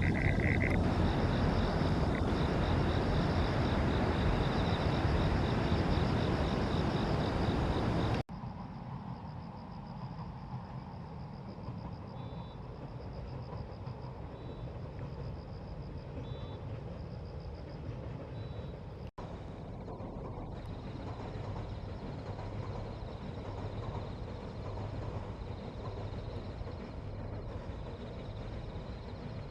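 Outdoor riverside ambience: a steady rushing noise, louder for about the first eight seconds and then dropping abruptly, with a faint high pulsing trill throughout and a few short high chirps near the middle.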